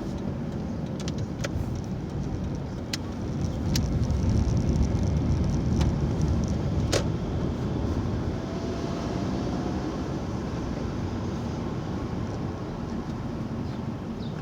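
A car being driven, giving a steady rumble of engine and road noise that swells for a few seconds in the middle. A few sharp clicks are heard through it.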